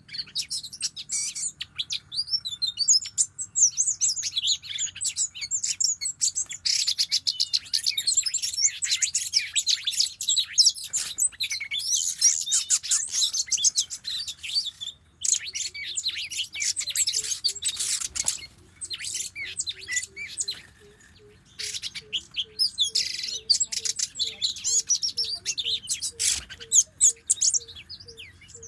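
Oriental magpie-robin (kacer) singing a rapid, varied run of high chirps and whistles almost without pause, with short breaks about halfway through and about two-thirds of the way in. In the second half a faint low note repeats about twice a second beneath the song.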